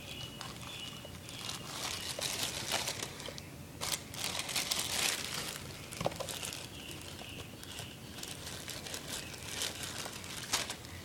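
Irregular crinkling and rustling from hands handling matches and a plastic egg, with a few small clicks, one sharper than the rest about six seconds in.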